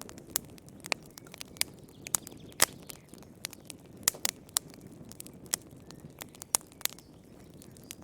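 Wood fire burning in a fireplace, crackling with sharp irregular pops over a low steady rumble of flame.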